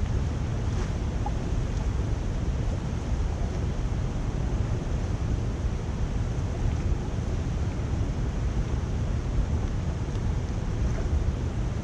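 Deep, steady rush of water flowing through a culvert drain.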